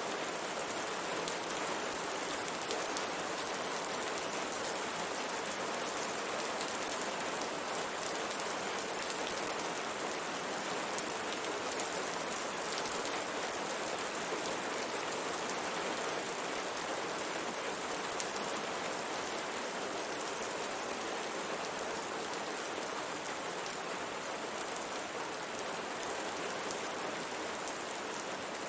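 Steady rain falling on a window, an even hiss of many raindrops with faint scattered ticks of drops striking the glass.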